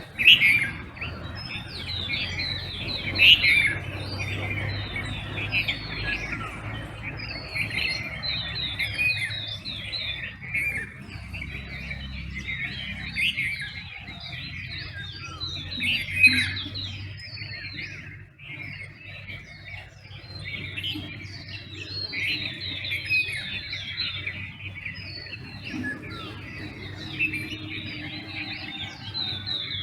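Dawn chorus of many songbirds calling at once: dense, overlapping chirps and warbling phrases, with a few louder calls standing out, over a faint steady low hum.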